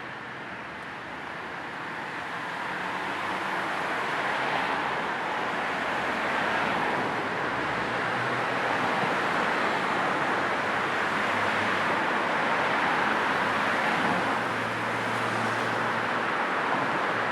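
Steady road and tyre noise of a car driving, with a faint low hum now and then. It swells over the first few seconds, then holds even.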